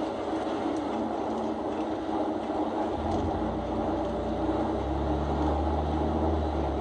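Vehicle engine and road noise running steadily while driving, with a deeper low rumble coming in about three seconds in.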